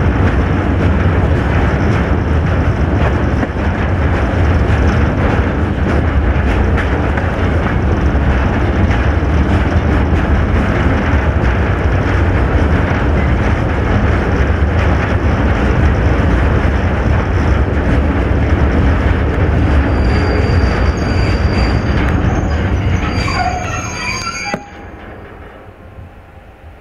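Train running on the rails, a loud steady rumble. Near the end there is thin, high wheel squeal, then the sound drops suddenly and stays much quieter.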